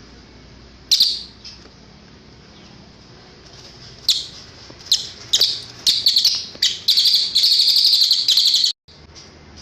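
Cililin songbird singing: one sharp high call, then from about four seconds in a run of sharp high chirps that quicken into a fast, continuous trill, which cuts off abruptly near the end.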